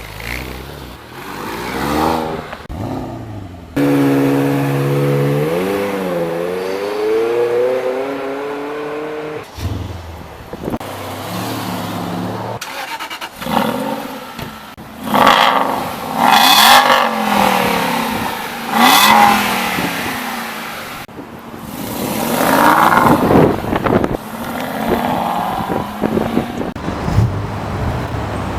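Supercar engines in several short back-to-back recordings: one held at a steady rev with its pitch wavering for several seconds, then loud bursts of hard acceleration.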